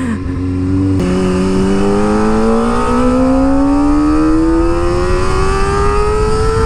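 Kawasaki ZX-25R's 249 cc inline-four through an Akrapovic exhaust under hard acceleration. The engine pitch drops sharply at an upshift about a second in, then climbs steadily as the revs build through the next gear.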